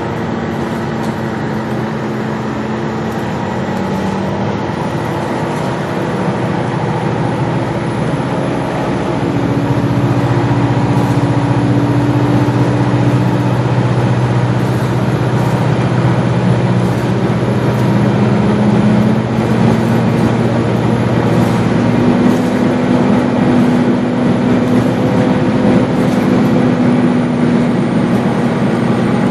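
Gillig Low Floor transit bus running, its engine note stepping up in pitch several times as it picks up speed, over steady road noise. No HVAC blower is running.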